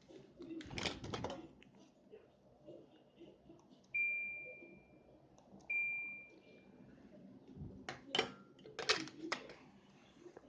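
Two electronic beeps from an LG T-06EMV inverter air conditioner's indoor unit, about two seconds apart, each a single high tone that fades over about a second, the unit acknowledging remote-control commands. Clicks and knocks of handling come before and after.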